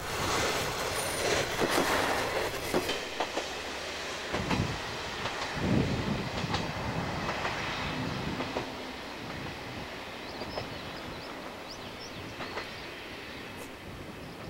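JR Hokkaido KiHa 40 diesel railcar passing close by. Its wheels clack over the rail joints in quick beats for the first few seconds, then in scattered clicks, and the sound fades as the train runs away.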